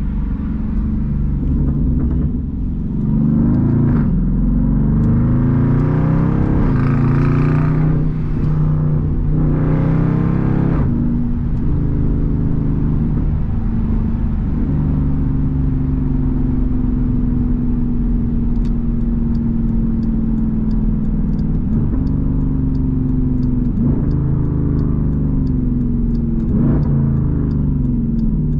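Straight-piped SRT Jeep Grand Cherokee's 6.4-litre HEMI V8 accelerating through the gears, heard from inside the cabin: the exhaust rises in pitch through several pulls, dropping at each upshift, then settles into a lower drone as the Jeep cruises. From a little past halfway a light regular ticking, about two a second, runs under the exhaust.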